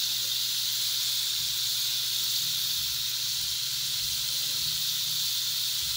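Potato strips deep-frying in hot oil in a pan: a steady, even sizzle.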